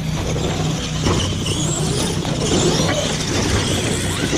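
Radio-controlled monster trucks' electric motors whining, rising and falling in pitch as they race, over a steady low hum and background voices.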